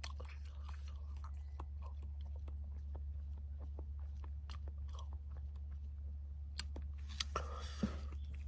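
A person chewing food close to the microphone, with small irregular crunches and clicks that grow louder near the end, over a steady low hum.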